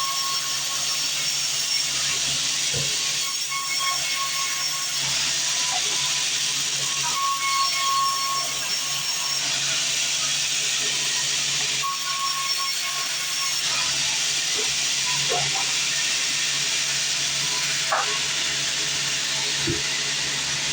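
Sawmill bandsaw running, its blade cutting through timber with a steady high hiss and a faint whine that comes and goes.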